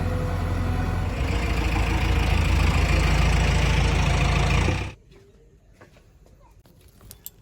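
Heavy diesel engine running steadily, growing louder about a second in, then cutting off abruptly just before five seconds, leaving only faint background with a few small clicks.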